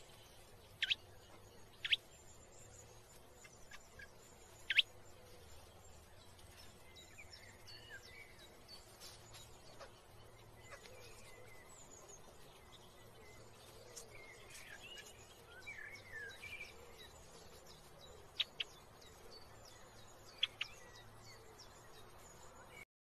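Birds calling: short, sharp falling chirps now and then, some in quick pairs, with softer twittering in between, over steady background noise.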